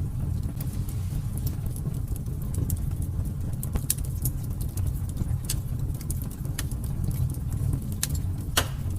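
Fire burning in a fireplace, crackling: a steady low rumble of the flames with scattered sharp pops, one louder pop near the end.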